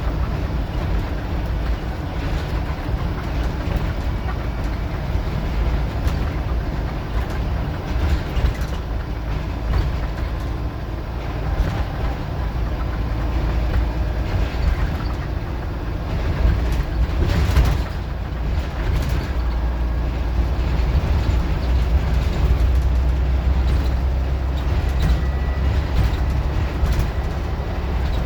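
Scania N94UD OmniDecka double-decker bus running under way: a steady low engine rumble with scattered clicks and knocks, growing a little louder about two-thirds of the way in.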